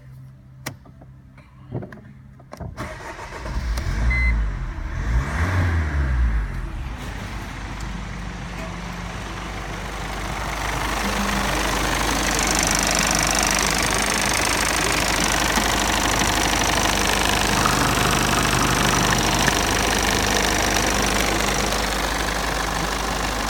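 Mercedes OM611 2.2 CDI four-cylinder common-rail diesel engine started about three seconds in, its speed rising and falling briefly as it catches, then running at a steady idle. The idle grows somewhat louder about ten seconds in.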